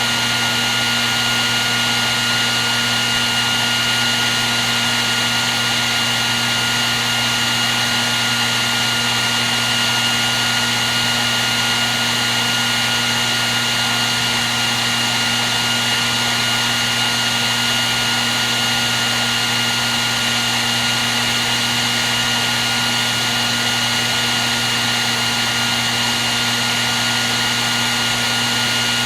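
Electric hair dryer running continuously: a steady rush of blown air with a constant motor whine and hum.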